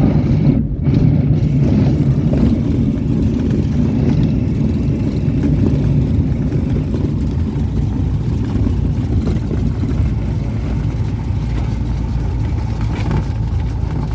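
Cessna 172 light aircraft rolling on a grass runway at low engine power, a steady low rumble of the engine and wheels that eases off slightly toward the end.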